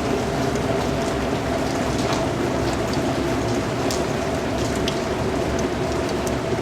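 Steady rain with scattered individual drops tapping, over a faint steady hum.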